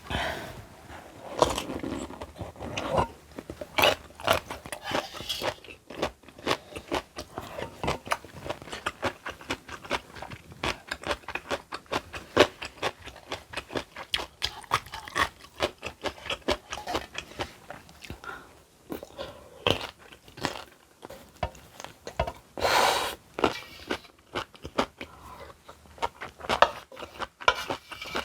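Close-up chewing of crunchy kimchi: many sharp, crisp crunches one after another, with wet mouth sounds between them, and one longer noisy sound about three-quarters of the way in.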